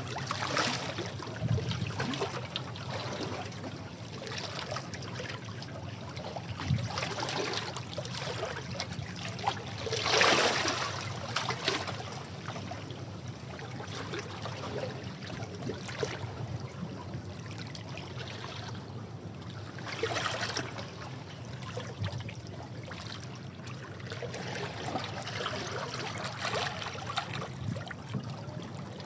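Sea waves washing against rocks, a steady rush of water with surges every few seconds, the strongest about ten seconds in.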